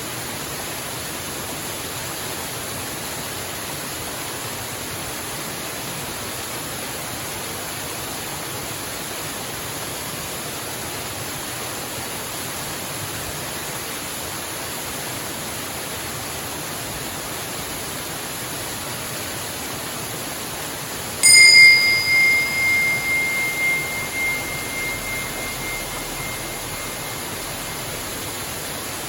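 Steady rush of a waterfall. About two-thirds of the way in, a small meditation bell is struck once, a clear high ring that pulses as it fades over about six seconds: the signal that the meditation has ended.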